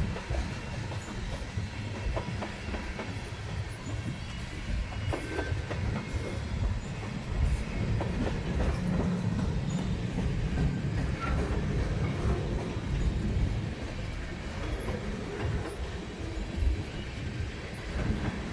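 A train rolling past, its wheels clicking over the rail joints over a steady rumble.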